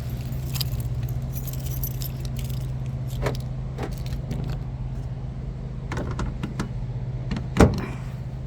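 A bunch of keys jangling, then several light clicks and one sharp, louder clack near the end, as a door lock is worked, over a steady low hum.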